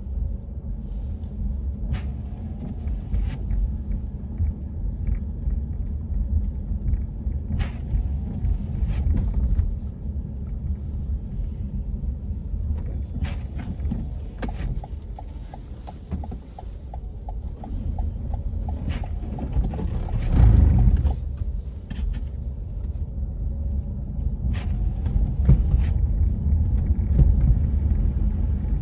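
Steady low rumble of city street traffic, with scattered sharp clicks and a short run of rapid, even ticking partway through; a louder low swell comes about two-thirds of the way in, as of a vehicle passing close.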